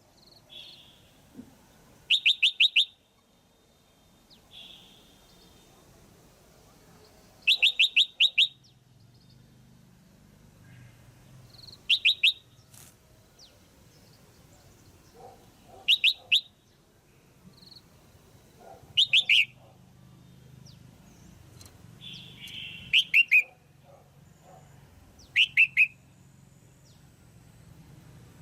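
Female red-whiskered bulbul calling: short bursts of three to five quick, loud chirps, repeated about every four seconds.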